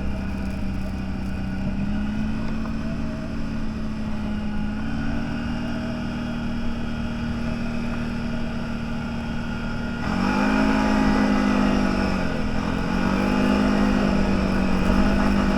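Off-road vehicle engine, likely the CFMoto 1000, running at a steady pitch. About ten seconds in it gets louder, and the pitch rises and falls twice as the throttle is worked.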